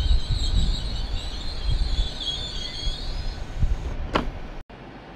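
GWR Hitachi intercity train rolling past along a curved platform: a low rumble of wheels and underfloor machinery, with high wheel squeal over the first three seconds. The rumble fades, and the sound drops suddenly to a quieter steady noise near the end.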